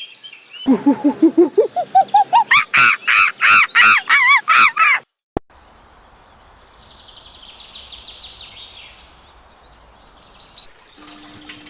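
A bird calling in a fast run of short notes, about three to four a second, that climb steadily in pitch and stop abruptly about five seconds in. A fainter high trill follows.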